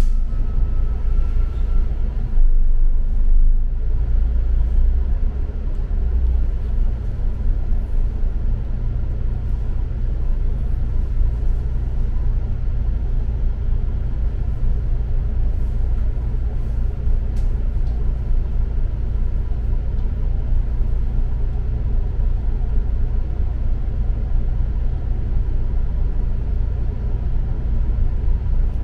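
Steady low rumble of a double-decker bus running, heard from inside the cabin: engine and road noise.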